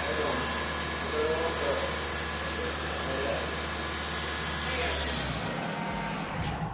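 Geo Tracker's four-cylinder engine idling steadily under a hiss, with a brief louder rush of hiss about five seconds in; just after it the engine's low hum stops and the sound drops away.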